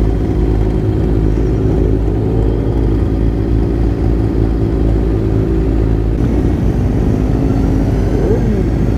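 Motorcycle engines running steadily at a crawl in a slow parade of bikes, with a brief rise and fall in engine pitch near the end.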